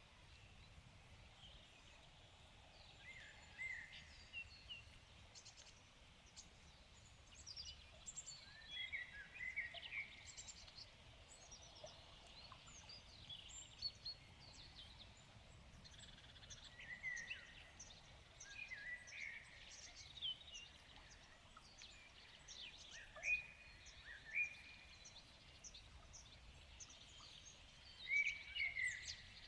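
Several songbirds singing and calling together in a forest, faint, with many short chirps and phrases overlapping all the way through.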